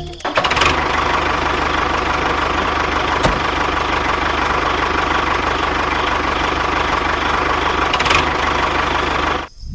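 A small motor running steadily with a fast, even rattle. It starts abruptly just after the beginning and cuts off suddenly near the end.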